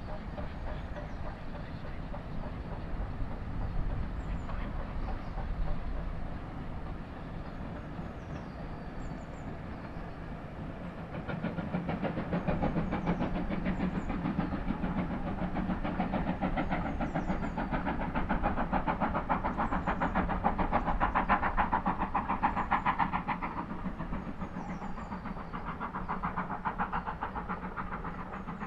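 Steam-hauled passenger train crossing a metal arch bridge. A low rumble comes first, then from about eleven seconds in a louder, rapid clatter of the coaches' wheels, which eases near the end. Birds chirp faintly throughout.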